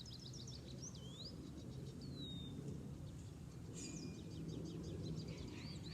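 Small birds chirping and whistling in several short phrases (a run of quick chirps, a sliding whistle, another chirping run near the end) over a steady low rumble of city traffic.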